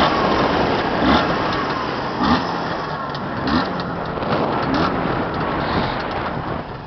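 Jawa 634 motorcycle's two-stroke twin engine running steadily while being run in.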